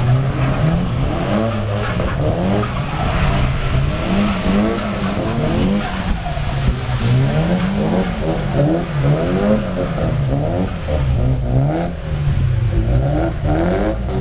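Drift cars' engines revving hard, the pitch rising and falling again and again about once a second as they are held on the throttle through a tandem drift.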